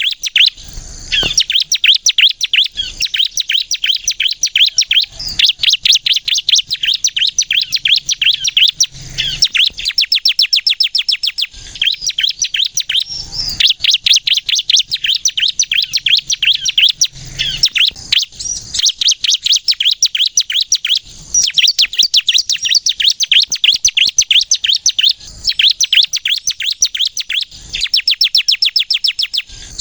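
A ciblek kristal, a prinia, singing persistently in rapid trills of sharp, high repeated notes. The phrases last a second or two each and follow one another with only brief pauses.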